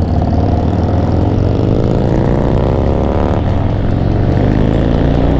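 Harley-Davidson V-twin motorcycle engine accelerating under way: its pitch climbs, drops suddenly about three and a half seconds in as it shifts up a gear, then climbs again.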